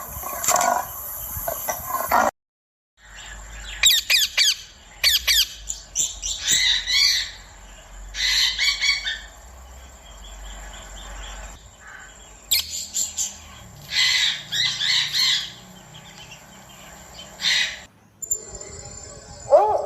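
A bird squawking and chirping in bursts of short, high calls with quick up-and-down swoops in pitch. Before that, a louder animal sound cuts off suddenly about two seconds in.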